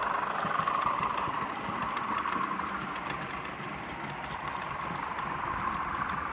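Model railway locomotive running on the layout, a steady whine that eases a little midway and rises again near the end.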